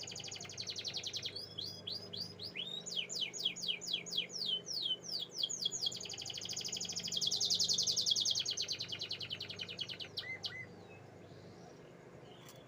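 Domestic canary singing a run of rapid trills of high, downward-sweeping notes, changing speed from phrase to phrase: a fast trill, then slower separate sweeps, then a dense fast trill that is the loudest part. The song stops a couple of seconds before the end.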